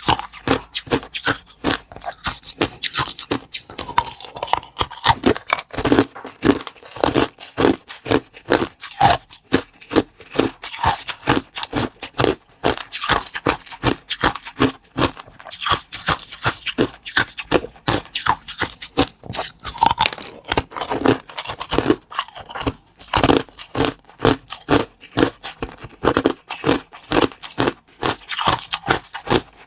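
Close-up eating sounds: someone bites, crunches and scrapes at small baked oval cakes, with many sharp, irregular crunches several a second.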